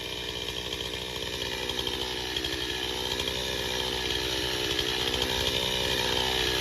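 Chainsaw running under load, cutting through a fallen pine trunk. The engine note holds steady and slowly grows louder.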